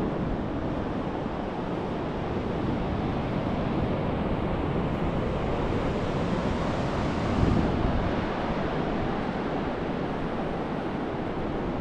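Ocean surf washing steadily onto a beach, with wind buffeting the microphone; the surf swells louder about seven and a half seconds in.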